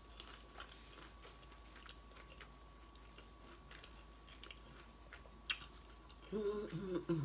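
A person chewing a mouthful of chicken burrito with the mouth closed: faint, soft wet clicks and smacks, with one sharper click about five and a half seconds in. Near the end a short voice sound, like a hummed "mm", is heard.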